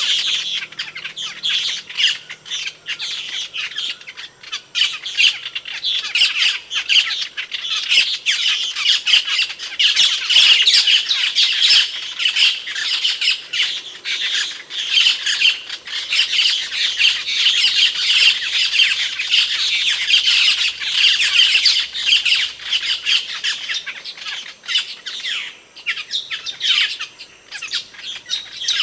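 Asian glossy starling (cucak keling) calling: a dense, rapid stream of short, sharp calls, busiest through the middle and thinning out near the end.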